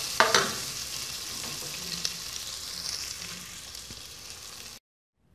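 Sliced calabresa sausage and bacon sizzling in their own rendered fat in an aluminium pot, with a plastic spoon stirring and scraping the bottom. The sizzle cuts off suddenly near the end.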